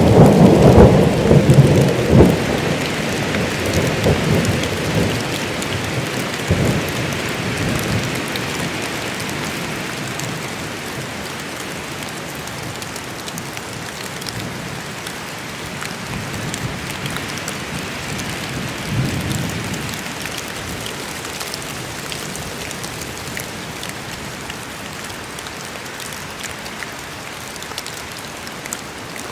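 Rain falling steadily in a forest thunderstorm. A loud roll of thunder rumbles at the start and fades away over several seconds, and a fainter rumble comes about two-thirds of the way through.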